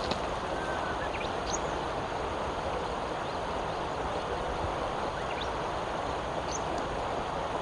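Steady outdoor rushing noise with a few faint, short high chirps scattered through it.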